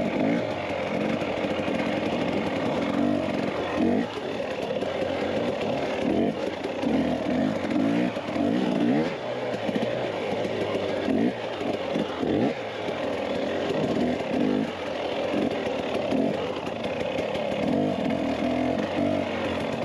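Dirt bike engine running under way, its revs rising and falling repeatedly.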